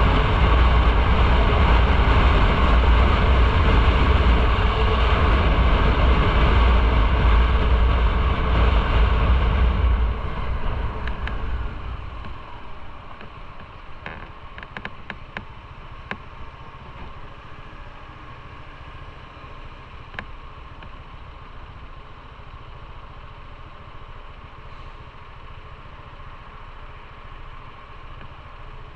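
Motorcycle on the move, engine and wind noise loud and steady, easing off about ten seconds in as the bike slows to a stop, then the engine idling quietly with a few light clicks.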